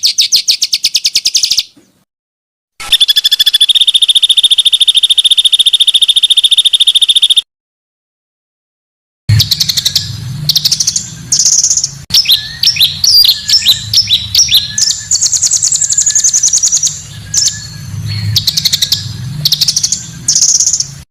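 Small songbirds singing, cut together in three pieces: a rapid high trill, then after an abrupt silence a long, fast, even trill, then after another silence a varied, chattering song of quick rising and falling notes over a low hum.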